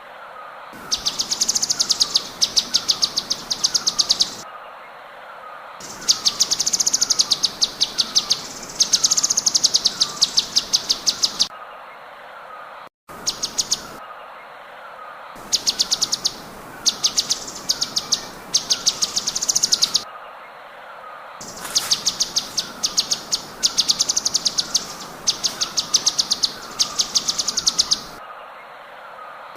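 Songbird song played as a tutoring (masteran) recording: rapid high trills, like a fast rattle, in bursts of one to two seconds with short pauses between, repeated again and again. Under it a lower, slightly falling note repeats about twice a second.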